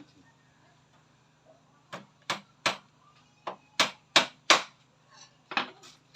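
A run of about eight sharp hammer blows, coming in quick bunches with a short pause midway.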